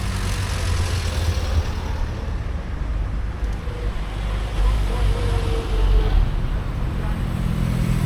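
Motor vehicle engines running, a steady low rumble.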